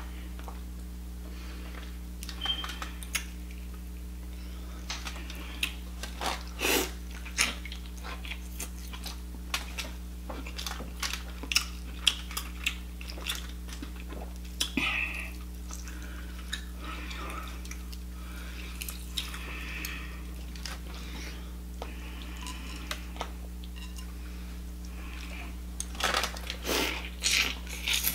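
Close-miked eating sounds: lobster meat pulled apart with the fingers, dipped in melted butter and chewed, heard as scattered short smacks and clicks, most densely near the end as she bites in. A steady low hum lies under it all.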